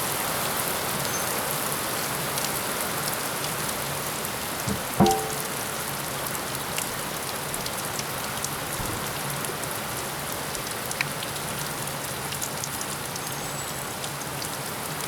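Rain falling steadily, a constant hiss with scattered drop ticks. A single sharp knock about five seconds in stands out above it.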